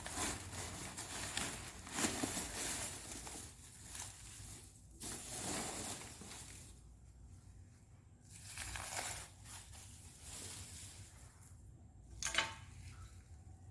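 Packaging being unwrapped by hand: irregular rustling, crinkling and tearing of wrapping material, louder and quieter in uneven bursts.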